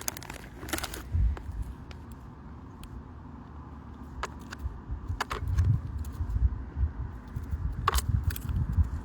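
Handling noise on a phone microphone: a low rumble with scattered sharp clicks and taps, busier and louder in the second half.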